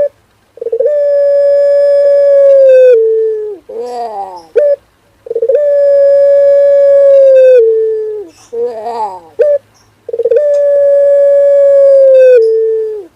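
Male Barbary dove cooing: three long, steady coos of about two seconds each. Each drops slightly in pitch at the end and is followed by a short, wavering, warbled note.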